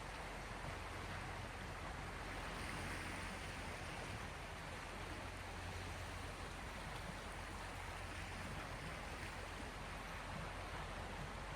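Sea waves washing on the shore: a steady wash of water that swells a little a few seconds in.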